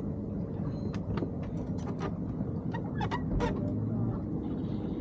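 Steady rush of wind and water on a small keelboat under sail, with scattered clicks and knocks of deck gear as the spinnaker pole is rigged.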